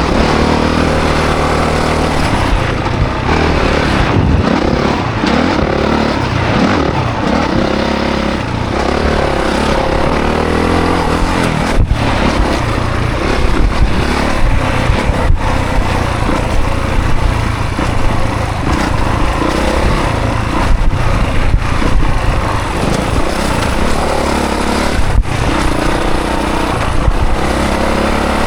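Honda CRF450 dirt bike's 450 cc single-cylinder four-stroke engine under hard riding, its pitch rising and falling with throttle and gear changes. There are a few brief sharp drops in the sound along the way.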